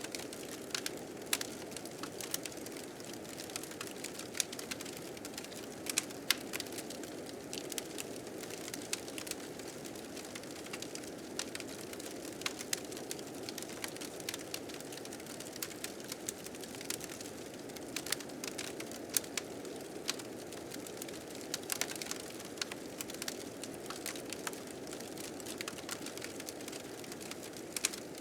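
Wood fire crackling with frequent irregular pops and snaps, over a steady blizzard wind.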